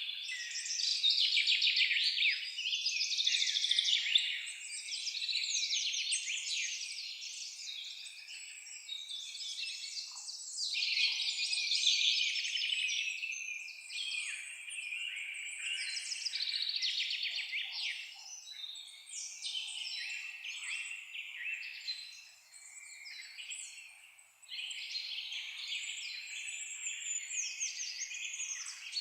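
A chorus of songbirds singing at once: many overlapping high chirps and rapid trills with no let-up, thinning briefly twice about three-quarters of the way through.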